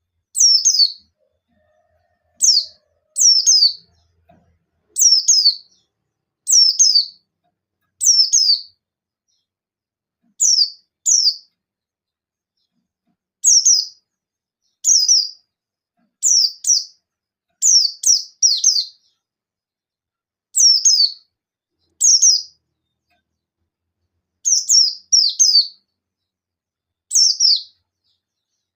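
White-eye (pleci buxtoni) giving its sharp 'nembak' calls: short, high notes that fall in pitch, mostly in twos or threes, repeated every second or two. It is used as a lure call to get other white-eyes to answer and sing.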